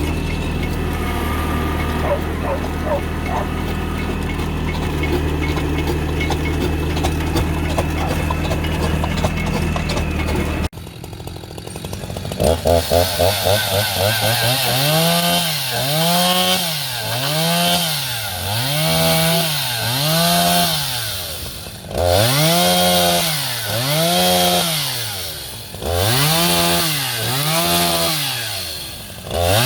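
A steady engine hum, then after a sudden break a small two-stroke engine whose speed swings down and back up about once a second: the motor bogging and recovering under load as it bites into hard ground or wood.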